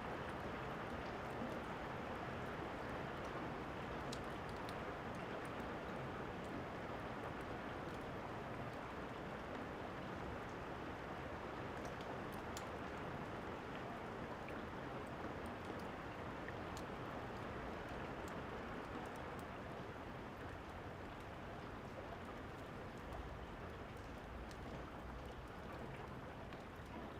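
Steady rain, with sparse, sharp crackles of a fire mixed in.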